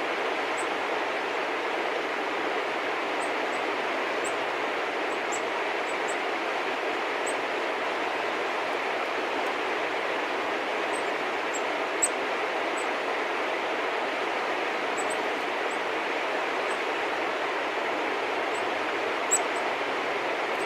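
Small birds giving short, high chirps every second or so over a steady rushing background noise, with two sharp clicks, one about halfway through and one near the end.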